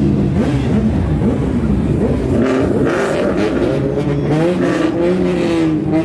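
Car engines revving hard, their pitch rising and falling again and again over a steady low rumble.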